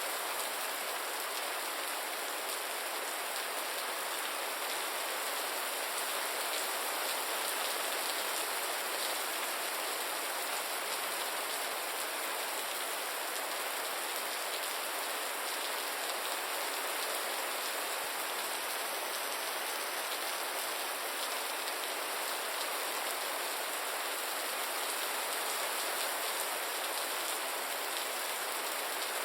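Steady rain falling on a surface, a constant hiss of many drops with fine pattering ticks and little low rumble. It neither builds nor eases.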